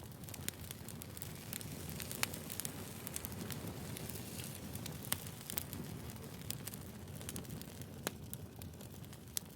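Firewood fire crackling: scattered sharp snaps and pops over a steady low rush of burning, with a few louder pops about two, five and eight seconds in.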